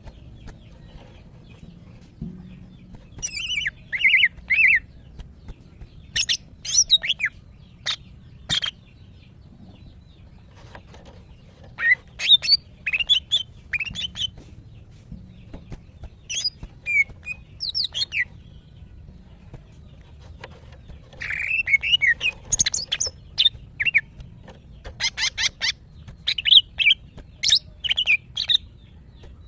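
Female greater green leafbird (cucak ijo) calling in groups of quick, high chirps and short whistles, with pauses of a few seconds between groups: the calls of a female in breeding condition calling for a male.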